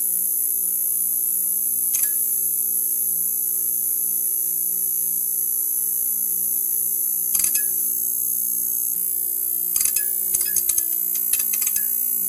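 Neon sign buzzing: a steady electrical hum with a high hiss over it, broken by sputtering crackles about two seconds in, again around seven seconds, and in a quick cluster near the end.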